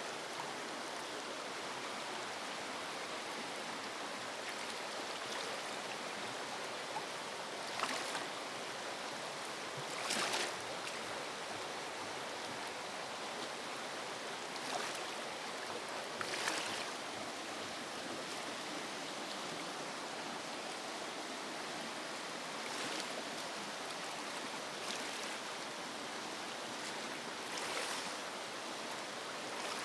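River water rushing steadily, with a few brief louder swells of splashing.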